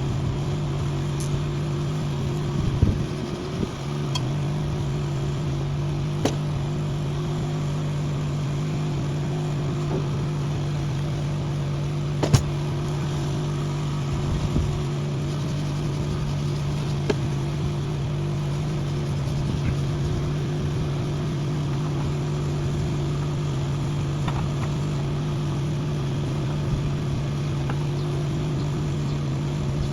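Steady machine hum, like an engine or motor running, with a few sharp clicks or knocks scattered through it.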